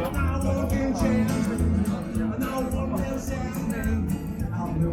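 A live band playing rock-and-roll style music: guitar over a steady bass and drum beat, with a voice singing.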